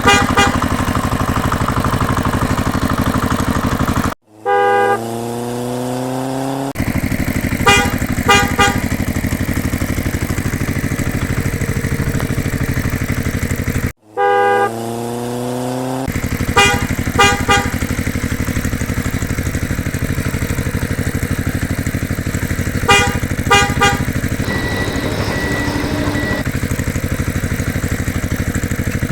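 Tractor engine running steadily, with bursts of three quick horn toots every several seconds. Twice the engine sound drops out abruptly, then comes back rising in pitch as it revs up again.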